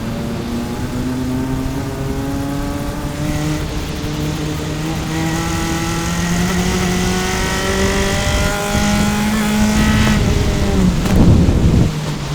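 Single-seater race car engine heard onboard under a long pull, its pitch climbing steadily for about ten seconds. About eleven seconds in comes a loud, rough burst as the revs drop, and it settles at a lower pitch.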